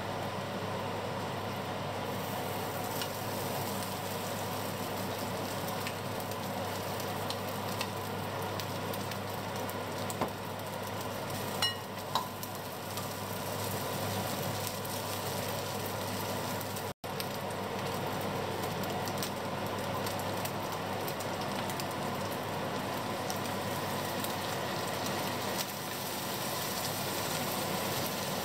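Dried fish frying in oil in a stainless steel pan, a steady sizzle over a low hum, stirred with a wooden spatula. A few knocks come about ten to twelve seconds in.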